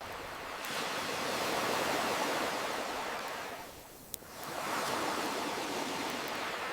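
Ocean waves washing in on the shore, one surge swelling and ebbing and a second rising after it, with a single sharp campfire crackle about four seconds in.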